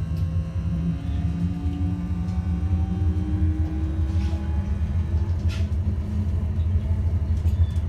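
Citylink tram-train running, heard from on board: a steady low rumble with an electric traction motor whine rising slowly in pitch as it picks up speed. Two short rattles come near the middle.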